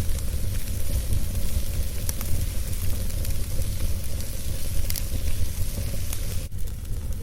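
Wood fire burning: a steady low rumble and hiss with scattered sharp crackles, the clearest about two seconds in and about five seconds in.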